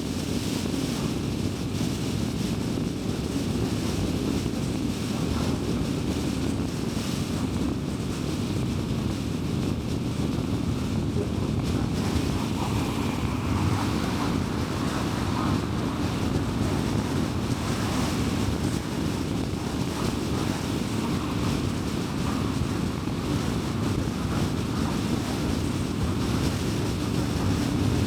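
Steady road noise of a car cruising on a highway: a constant low rumble of tyres and wind.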